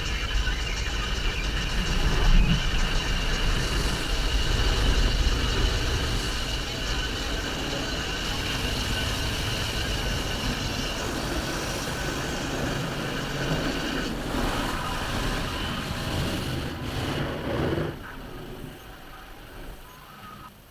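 Steady vehicle and machinery noise, with a high steady whine through the first half, dropping away in the last few seconds.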